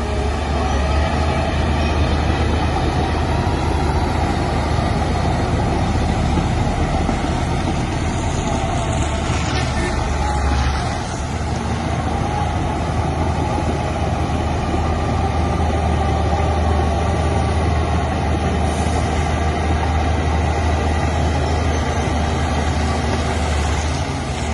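Heavy earthmoving machinery running steadily with a deep engine rumble, easing briefly about eleven seconds in.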